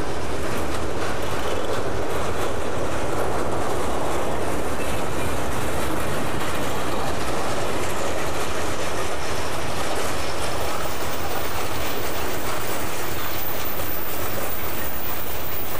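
Guilford Rail freight cars, boxcars and a tank car, rolling past steadily, their steel wheels clattering over the rail joints with a continuous clickety-clack.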